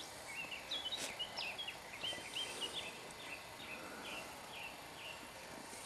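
A songbird singing: a string of short, quick chirping notes, about three a second, that stops about five seconds in, over faint outdoor background noise.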